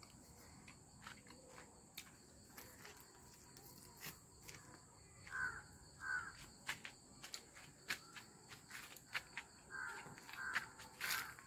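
A person chewing and smacking on grilled chicken close to the microphone: irregular clicks and short smacks, a few louder around the middle and near the end, over a steady high chirring of night insects.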